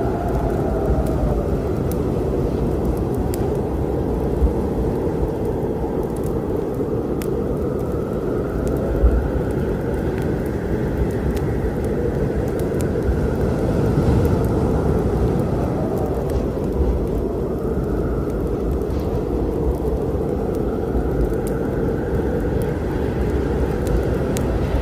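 Steady low rumble of a storm, with wind slowly rising and falling in pitch. Sparse sharp crackles of a wood fire sound over it.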